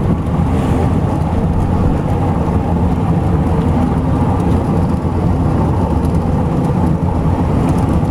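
Homemade jet boat's 350 V8 engine running steadily: a loud, even low rumble with a hiss over it. The owners say the motor needs to be gone through.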